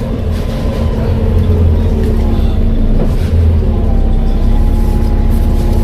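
Volvo B7TL double-decker bus with a Voith automatic gearbox running under way: a heavy low drone with a steady hum, and whining tones that slide gently down in pitch and rise again about halfway through.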